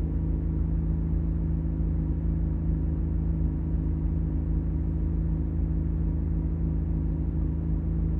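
Chevrolet Corvette C8 Z06's flat-plane-crank V8 idling steadily, an even low drone heard from inside the car.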